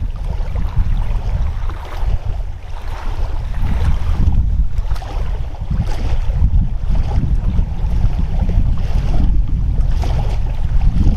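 Wind blowing in off the lake and buffeting the microphone: a loud, steady low rumble that swells and dips.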